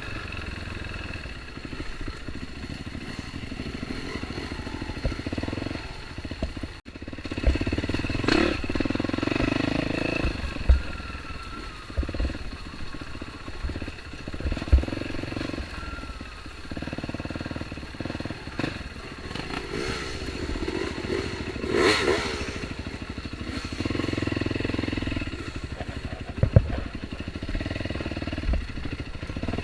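Off-road dirt bike engine revving up and easing off in turn while riding a trail, with scattered thumps and clatter.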